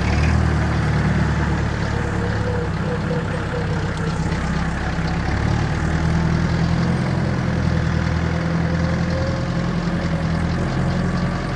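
Perkins 4203 four-cylinder diesel engine of a 1962 Lansing Bagnall forklift running steadily under load, no longer stalling.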